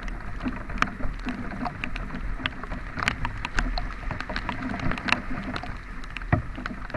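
Heavy rain ticking and tapping in sharp irregular clicks over the steady low rumble of a vehicle driving through it on a rough road.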